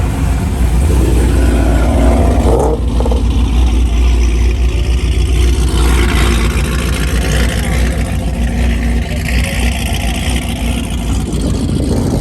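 Car engines running with a deep, steady rumble as cars drive past, with some revving.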